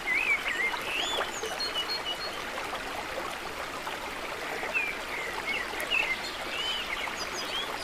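Running water from a stream, a steady rush, with birds chirping now and then over it.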